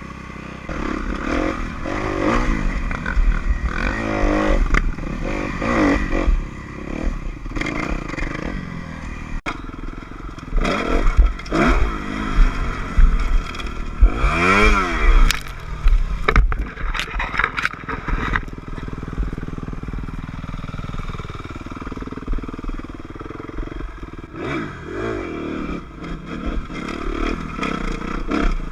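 Dirt bike engines revving up and down, one climbing and falling steeply about halfway through, with scattered clattering knocks.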